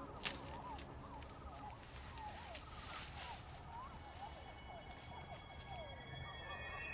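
Swamp ambience: many short chirping calls that rise and fall over a low rumble, with one sharp click about a quarter second in. Steady, high held music tones come in near the end.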